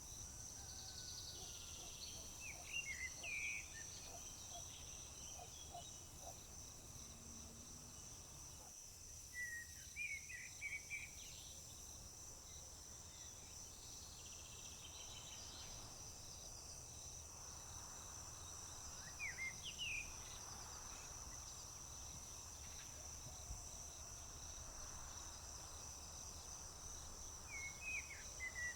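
Steady high-pitched trilling of crickets, with a songbird singing a short chirping phrase four times, about every nine seconds.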